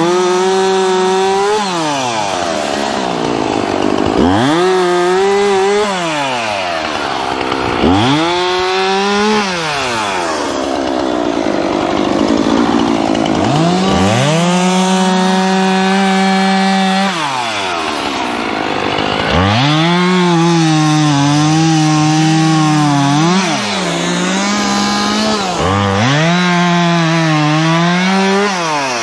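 Gas chainsaw revved to full throttle and let back down about six times, each rev holding high for one to three seconds before dropping, with rougher, noisier stretches in between as the chain works through wood.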